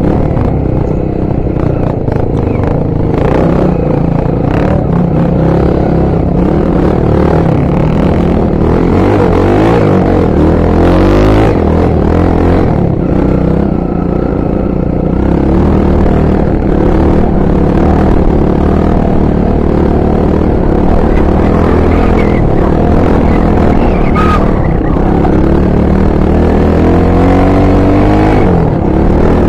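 Honda XR 250 Tornado's single-cylinder four-stroke engine running under way, its pitch rising and falling as the throttle opens and closes.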